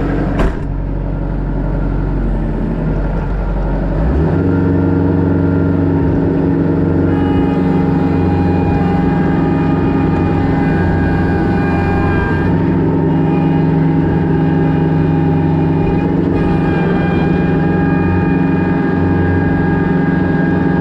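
Kubota B3000 compact tractor's diesel engine running steadily, with a sharp click about half a second in. About four seconds in the engine note changes and gets slightly louder, and from about seven seconds higher steady whining tones run over it.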